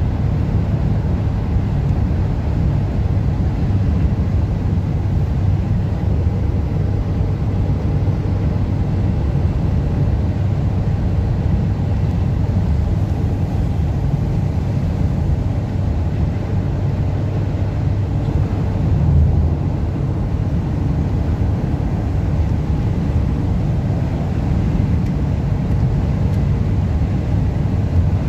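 Car driving in a sandstorm: steady low rumble of road and strong wind noise.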